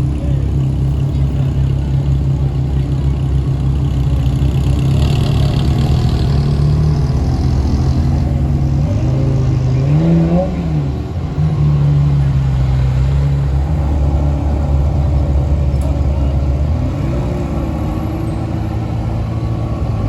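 Vehicle engine running steadily close by, briefly revved once about halfway through, its pitch rising and falling back.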